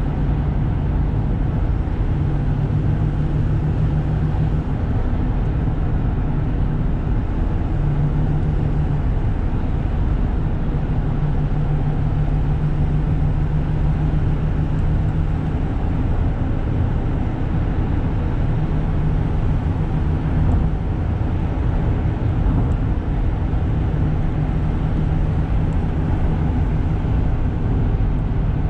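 Interior sound of a Toyota Granvia's 3.0 L 1KZ-TE turbo diesel under way at a steady cruise: a continuous low engine hum with the intake and turbo noise plainly audible over the road noise.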